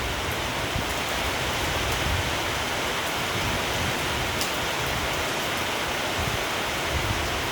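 Steady rain falling, a dense even hiss with a few faint drop ticks, over a low, unsteady rumble of wind.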